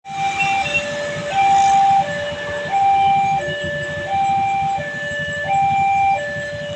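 Railway level-crossing warning alarm sounding: an electronic two-tone signal alternating high and low, each note about two-thirds of a second long, over a low rumble.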